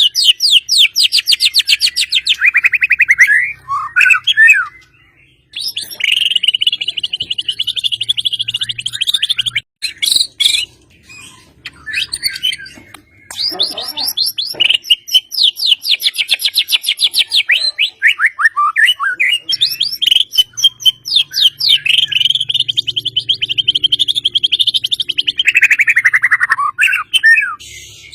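A songbird singing long rapid-fire trills of fast repeated notes, each phrase lasting several seconds and several of them sliding down in pitch at the end. There is a break about halfway through, with scattered softer notes and a few sharp clicks.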